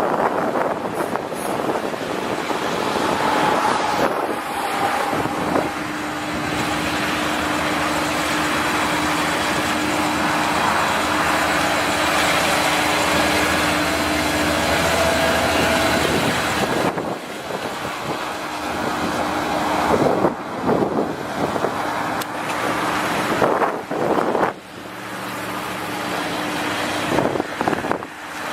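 Large farm tractor's diesel engine running steadily. There are sudden drops and jumps in the sound from about two-thirds of the way in.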